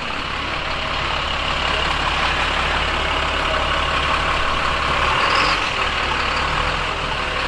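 A heavy road vehicle's engine running close by over the hiss of traffic on a wet street, growing louder to a peak about five seconds in and then easing off.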